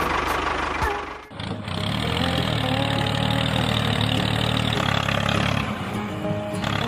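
Engine running steadily with a fast even pulse, breaking off about a second in and giving way to a different steady low engine hum.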